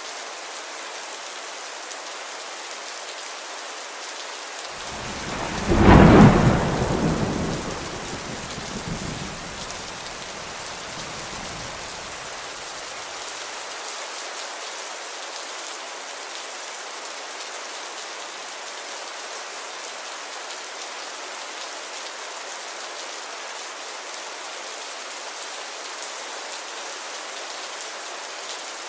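Steady rainfall hiss with one clap of thunder about five seconds in: a sharp crack that rolls off in a deep rumble, fading over the next several seconds.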